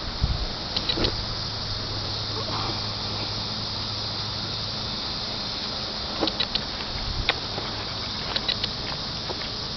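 1995 Corvette's stock LT1 5.7-litre V8 idling steadily through Flowmaster 40 series mufflers, with the catalytic converters and resonator still in place, giving a low even hum. A few light clicks sound over it.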